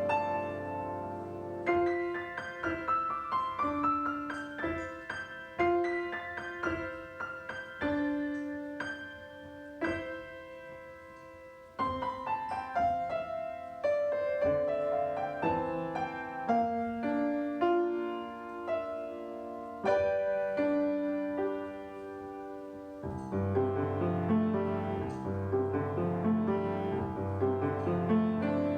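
Solo piano playing a melodic piece with quick runs of notes. It goes quieter in the middle and grows fuller, with low bass chords, near the end.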